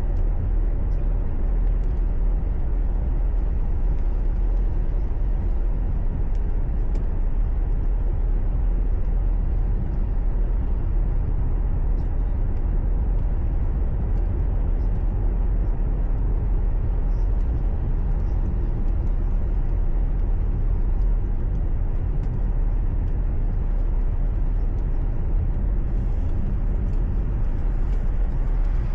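Steady low rumble of a car's engine and road noise heard from inside the cabin, with faint scattered ticks.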